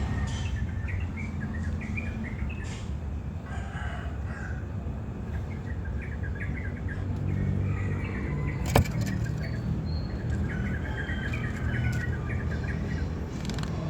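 Small birds chirping in short, scattered calls over a steady low hum, with one sharp click about nine seconds in.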